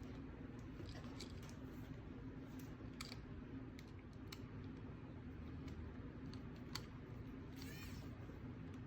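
Scattered light clicks and taps of a small screwdriver and tiny screws as a circuit board is screwed back into an O-gauge model locomotive, with a brief squeak near the end.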